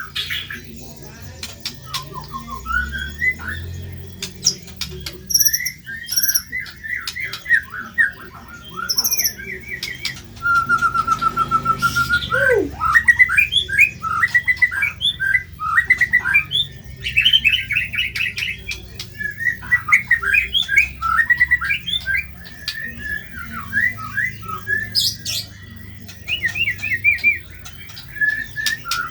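White-rumped shama (murai batu) singing a varied, harsh song of rapid chattering and rattling phrases. About ten seconds in there is a held whistled note, followed by a quick falling note.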